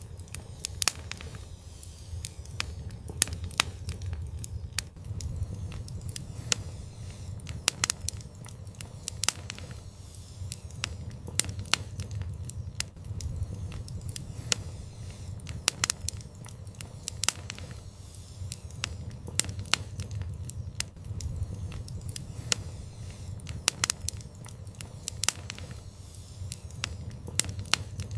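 Fire in an outdoor fireplace crackling, with frequent sharp, irregular pops over a steady low rumble.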